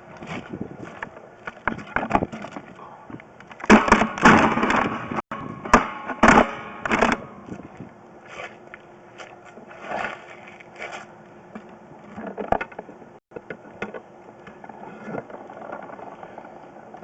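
Sewer inspection camera push cable being fed down a vent pipe: irregular scraping, rattling and knocking, loudest in a burst about four to seven seconds in.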